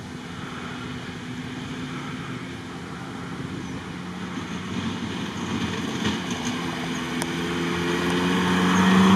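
Off-road Lada Niva 4x4 driving at speed toward the camera on a dirt track. Its engine runs at a steady pitch and grows steadily louder as it approaches.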